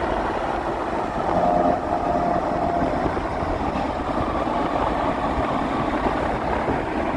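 Steady wind noise on the microphone mixed with the rush of vehicles travelling at highway speed, with a faint engine tone showing briefly between about one and three seconds in.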